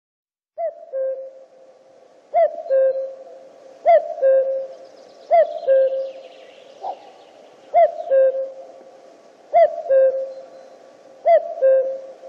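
Male common cuckoo calling its two-note "cu-coo", high note then lower note, repeated about every one and a half to two seconds after a brief silence at the start.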